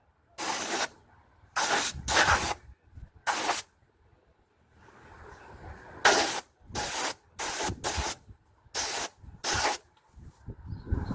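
Short bursts of hissing, about ten of them, each under half a second and starting and stopping sharply, at uneven gaps with a longer pause in the middle.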